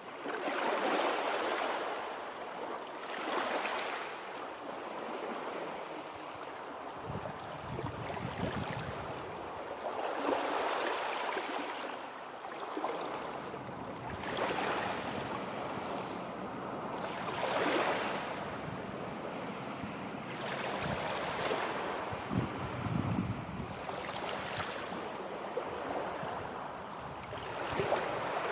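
Sea surf: waves breaking and washing in, the noise swelling and falling back at uneven intervals of a few seconds.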